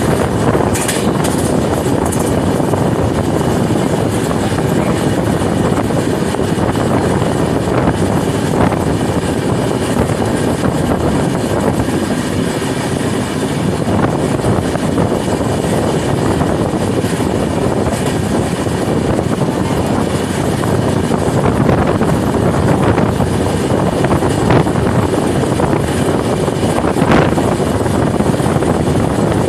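Passenger train running at speed, heard from an open coach door: a steady loud rush of wheels on the rails and air, with a few faint clacks.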